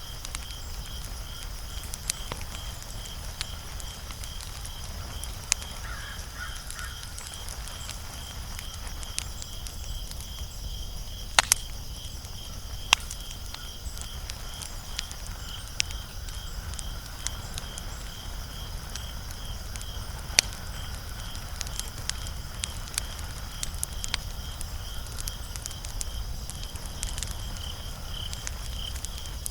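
Wood fire crackling, with scattered sharp pops, the loudest about a third of the way in, over a low rumble. A cricket chirps steadily about twice a second throughout.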